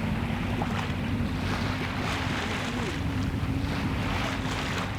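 A sailboat's engine runs at a steady drone while under way, with wind and water noise over it.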